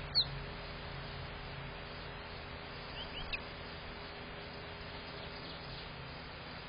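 Short bird chirps: one sharp, falling chirp near the start, then two or three quick chirps about three seconds in, over a steady low hum.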